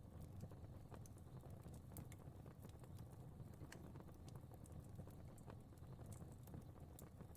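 Fire crackling faintly: irregular small pops and snaps over a soft, steady low rumble of burning.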